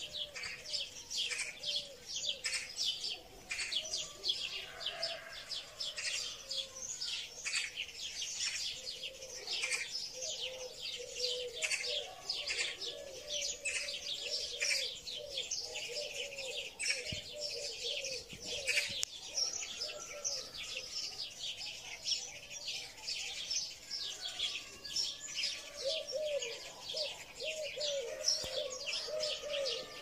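Small birds chirping busily and continuously, with runs of a lower repeated call in between.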